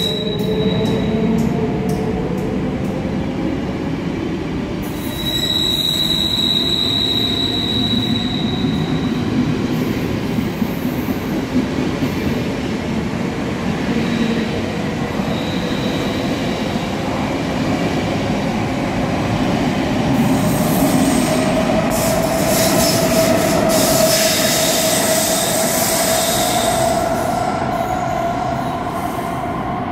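SBB IC 2000 double-deck train hauled by a Re 460 locomotive pulling out of an underground station, its coaches rolling past with steady wheel noise in the echoing hall. A high wheel squeal rings out about five to eight seconds in, and a slowly rising whine builds in the last third as the train gathers speed.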